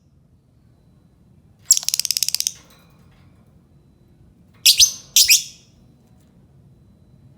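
Lovebird calling: a rapid chattering trill lasting under a second about two seconds in, then two sharp, high shrieks half a second apart about five seconds in.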